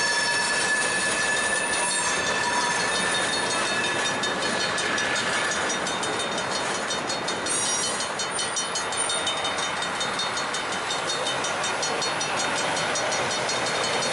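Slow-moving freight train, its wheels squealing on the rail. One steady squeal fades out about six seconds in, while fainter high squeals and quick, even clicking carry on over the rolling noise.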